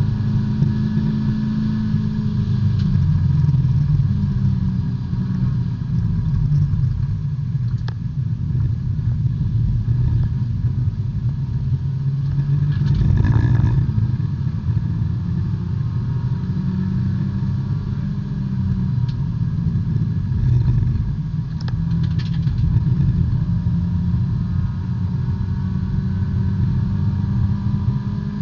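B-Spec race car's small four-cylinder engine heard from the cockpit at speed, its pitch dropping early on and climbing again in the second half as the revs change through the corners, with a brief rushing burst about halfway through.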